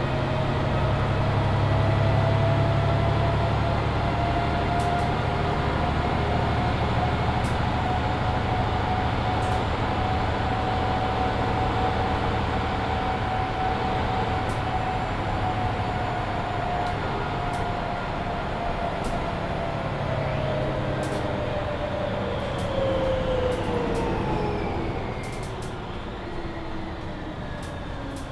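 Mercedes-Benz Citaro C2 Hybrid city bus heard from inside, its diesel engine and drivetrain running under way with a low rumble and a steady whine. Over the last few seconds the whine falls in pitch and the sound drops as the bus slows. Small interior rattles tick through it.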